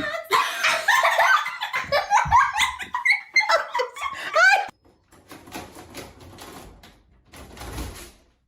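Hearty human laughter for about four and a half seconds, then quieter knocking and rustling noises.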